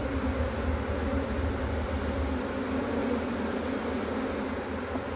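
Steady buzzing of a honeybee swarm as the bees walk into a nuc box. A low rumble sits under the buzz for the first half and then fades.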